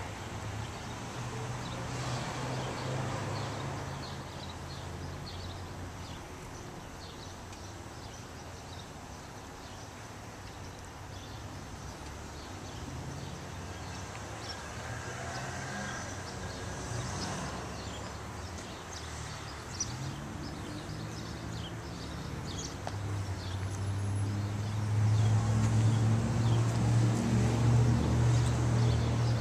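A vehicle engine idling with a steady low hum, louder in the last few seconds, with faint rustling over it.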